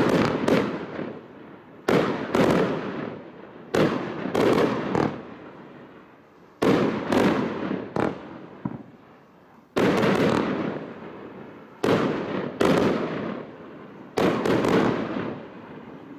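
Display firework cakes and barrages firing: a run of loud bangs, often in quick pairs or threes, coming every second or two, each report echoing away before the next.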